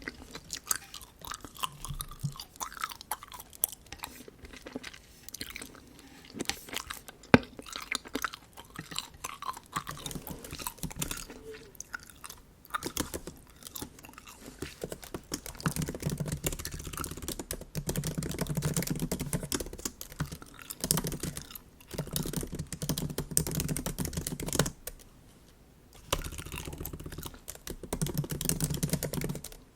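Bubble gum chewed close to the microphone: wet smacks and small clicks of the mouth. About halfway through, runs of typing on a MacBook keyboard join in.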